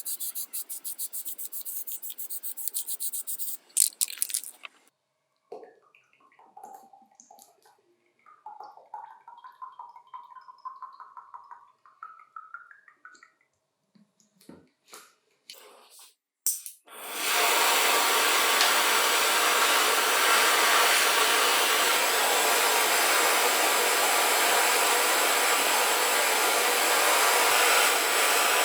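Light handling clicks and scrapes. About two-thirds of the way through, a loud, steady rush of blown air starts and holds evenly.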